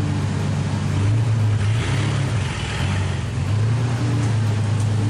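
Truck engine running at low speed, a steady low hum whose pitch wavers slightly, with a brief hiss about two seconds in.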